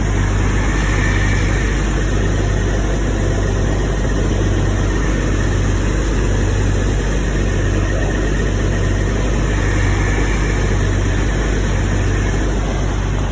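Newly installed car engine idling steadily on its first run, still warming up.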